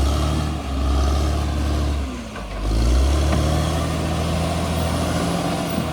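Bulldozer's diesel engine running under working load, its note sagging and picking back up twice, then running steadily.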